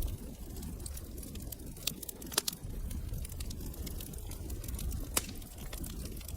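Wood fire crackling over a low rumble, with many small snaps and two sharp pops, one about two and a half seconds in and one about five seconds in.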